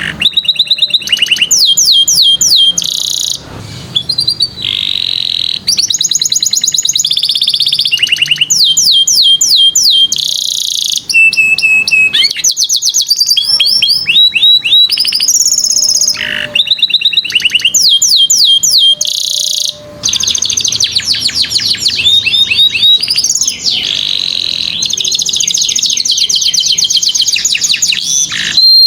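Domestic canary singing a long unbroken song of fast trills and rolls, switching between phrases every second or two, with rapid runs of falling notes.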